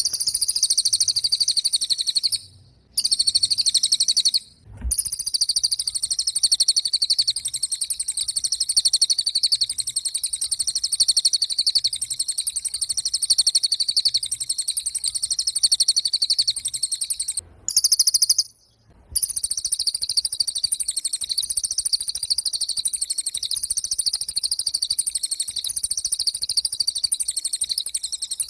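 A cililin bird singing a loud, very high, rapid buzzing trill in long unbroken bouts, with three short pauses, the longest a little past the halfway point.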